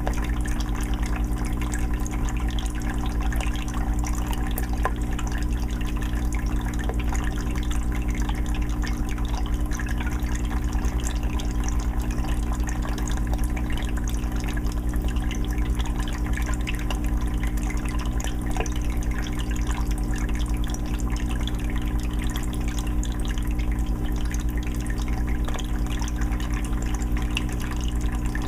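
Aquarium filter running: water trickles and splashes continuously with many small drips, over a steady low hum.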